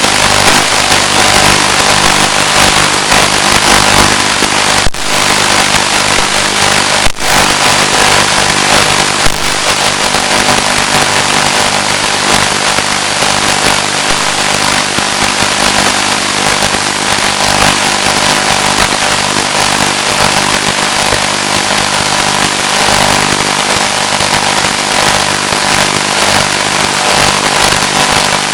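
Loud, steady hiss with a low buzz from the audio channel of an analog FPV video downlink, broken by two short dropouts about five and seven seconds in.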